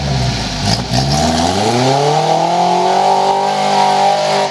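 Off-road buggy engine revving: running steadily for about a second, then climbing smoothly in pitch and held at high revs until it starts to drop right at the end.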